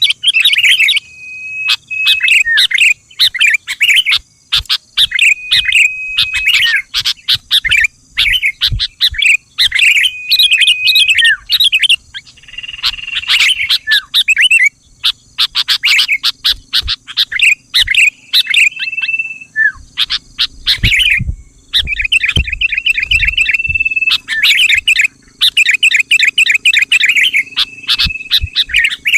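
Sooty-headed bulbul (kutilang) song: bursts of quick chattering notes, many ending in a short, steady whistled note, repeated over and over with brief pauses, as used as a lure call to draw other bulbuls into singing.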